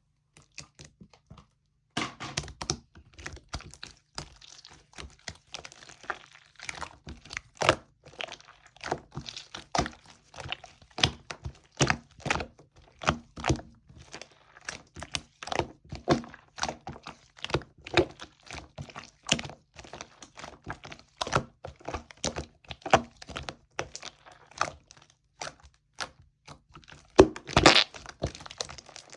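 Light-green slime being squished and pressed by hand, giving a dense, irregular run of sharp pops and clicks, several a second, with a louder cluster near the end.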